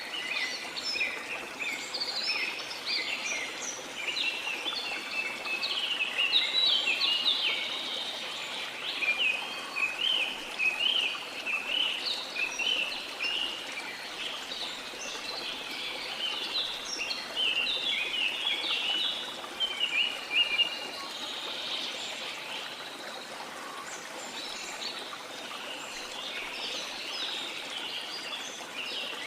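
Many tropical rainforest birds chirping and singing in a dense chorus of quick, high chirps, over the steady rush of a waterfall.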